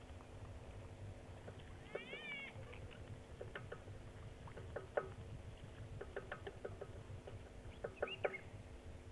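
Wild birds calling: scattered short chirps, a quick run of whistled gliding notes about two seconds in, and a rising call near the end, over a steady low hum.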